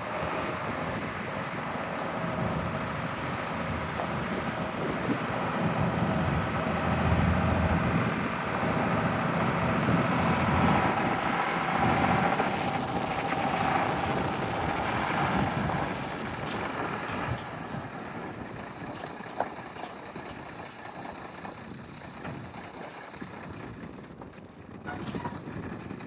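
1984 International S1900 truck's engine running, louder through the middle and quieter over the last third.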